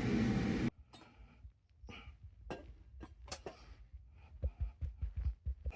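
Background song that cuts off suddenly under a second in, followed by sparse light clinks and taps of dishes and cutlery.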